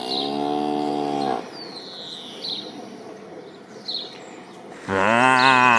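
A cartoon cow mooing, a steady low call for about a second and a half, then a few faint bird chirps, then the cow mooing again with a wavering pitch near the end.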